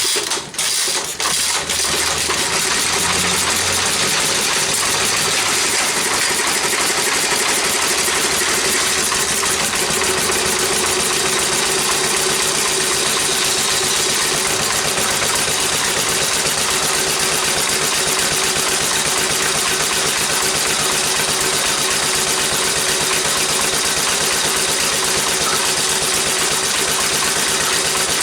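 Briggs & Stratton model FI single-cylinder engine firing unevenly for a second or two, then catching and running steadily with its carburettor needle opened a little.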